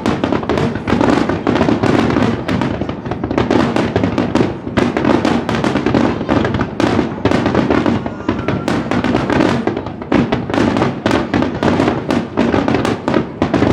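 Fireworks display at close range: a rapid, continuous barrage of firework shells bursting and crackling, many reports a second.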